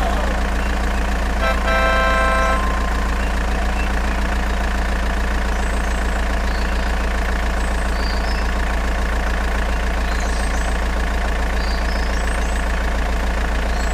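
A steady, engine-like motor drone running without change, with a short flat horn-like tone about a second and a half in.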